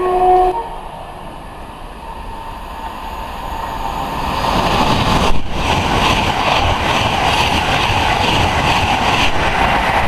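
A Virgin express passenger train gives a short horn blast, then approaches and passes at speed. As it goes by, the wheels beat out a regular clatter over the rails.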